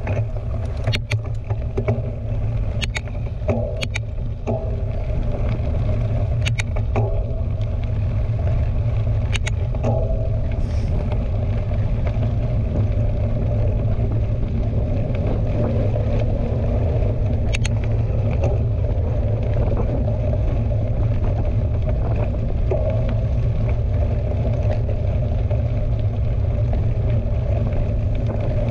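Steady low rumble of wind buffeting a helmet or chest-mounted action camera and mountain bike tyres rolling over the trail. Several sharp clicks come in the first ten seconds and one more a little later.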